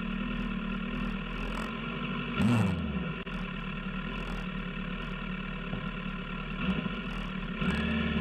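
Steady hum of a car's engine, with one brief louder sound about two and a half seconds in that drops in pitch.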